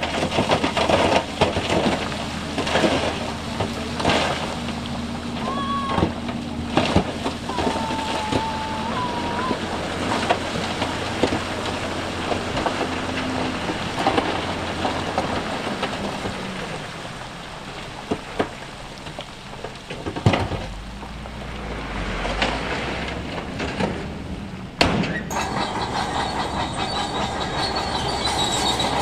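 Diesel earthmoving machinery working loose rock: an engine running steadily under stones clattering and knocking, with short metallic squeals from steel crawler tracks. The sound changes abruptly near the end to a denser run of squeals.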